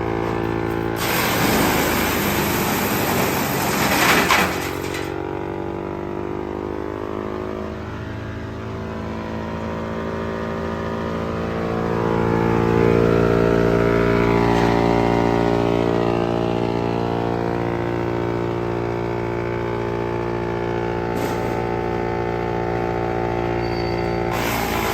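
Wood chipper machine running with a steady engine hum whose pitch sags and then picks up again partway through. Bursts of rough, grinding noise come in for a few seconds near the start and again just at the end.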